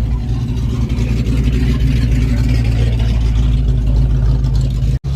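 An engine running steadily close by, a low even rumble with no change in speed. The sound cuts out for an instant about five seconds in.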